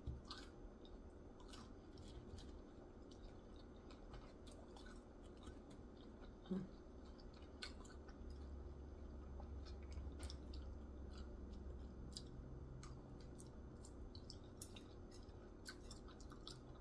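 Faint chewing of a fried mini veggie egg roll, with scattered small crunches and mouth clicks. One louder bump comes about a third of the way through.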